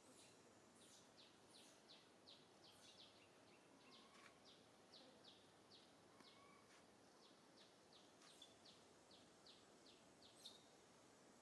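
Faint bird chirping: a steady run of short, high, falling chirps about three a second, with a couple of lower short whistles now and then.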